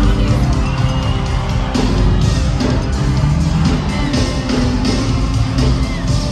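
Live gospel worship music played by a band, with a drum beat, and crowd voices cheering over it.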